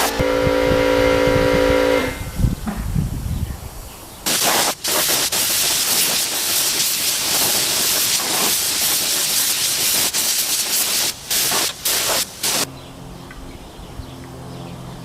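Compressed-air paint spray gun hissing in long spraying passes as silver basecoat goes on, with several short breaks near the end before it stops. A steady hum of several tones and then a low rumble come before the spraying starts.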